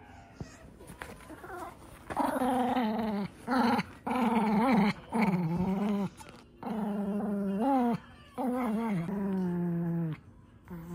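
Pomeranian growling in play while tugging on a rubber chew toy: a string of about six drawn-out growls, each roughly a second long, starting about two seconds in.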